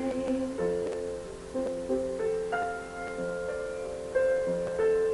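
Instrumental accompaniment of a slow ballad: gentle sustained notes and chords moving between sung phrases, with no voice.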